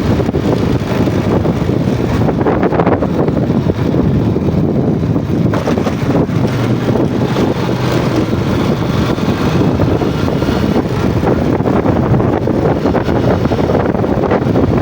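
A Yamaha Jupiter MX motorcycle running steadily while being ridden, its engine drone mixed with heavy wind buffeting on the microphone.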